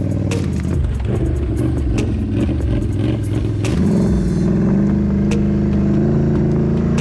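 Can-Am Renegade 1000 XMR ATV's V-twin engine running under throttle, its pitch climbing and then holding steady from about four seconds in, with repeated sharp clicks and clatter.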